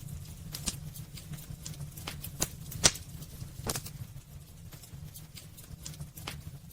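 Wood fire burning in a fireplace: irregular sharp crackles and pops, the loudest nearly three seconds in, over a low steady rumble of the flames.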